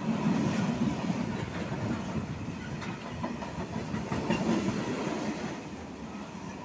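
Freight train's covered wagons passing close at speed: a steady rumble of steel wheels on the rails, with a few sharp clacks over the rail joints.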